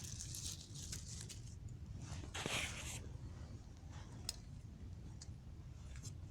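Dry leaves crunching and crackling underfoot, with scattered faint crackles and one louder crunch about two and a half seconds in.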